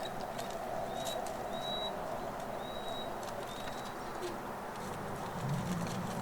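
A bird calling outdoors: a series of about five short, thin, high whistled notes, with scattered faint clicks and a brief low sound near the end.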